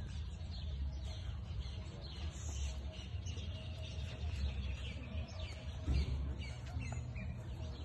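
Small birds chirping and calling over and over, many short quick notes, over a steady low rumble.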